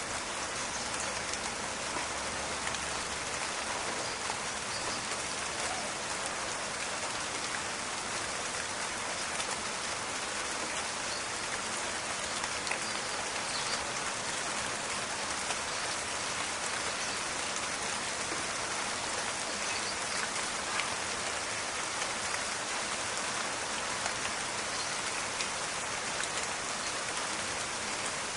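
Steady rain falling in a forest, a dense even patter of drops with many small crackling ticks.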